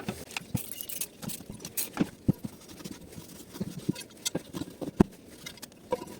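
Irregular light taps, clicks and scrapes of engine parts being handled and cleaned, with one sharper knock about five seconds in.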